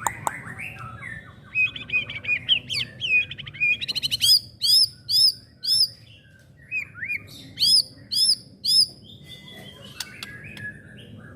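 Young white-rumped shama (murai batu) singing a varied song: quick ticks and short trills, then two runs of repeated arching whistled notes, about four and then three.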